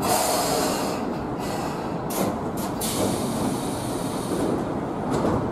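Train running on the rails, a steady rushing noise.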